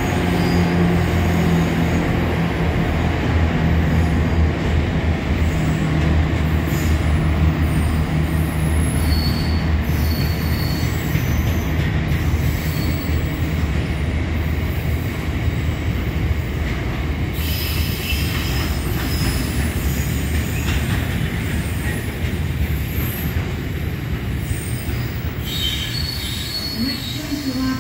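A train running through a station: a steady low drone with short high-pitched wheel squeals now and then. The drone slowly fades in the second half.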